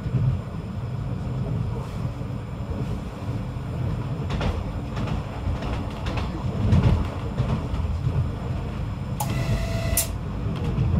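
PESA 620M diesel railcar running along the track: a steady low rumble with a few clicks. A short electronic beep of about a second sounds near the end.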